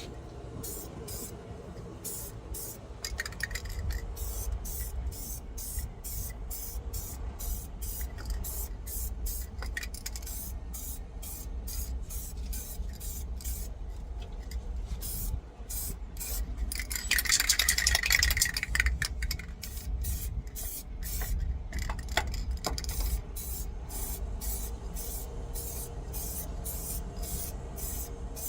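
Spray painting of a truck engine: a paint spray hisses in one strong burst of about two seconds a little over halfway through, with fainter rubbing and scraping around it, over a steady low hum and a regular high ticking.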